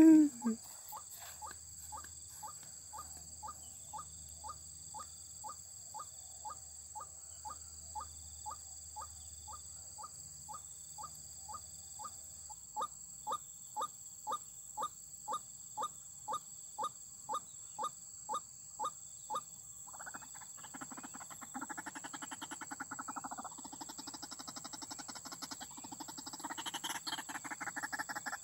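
White-breasted waterhen calls, used as a trapping lure: a run of short, falling notes about twice a second, growing louder about halfway, then giving way to a fast, continuous croaking chatter. A steady high whine runs underneath.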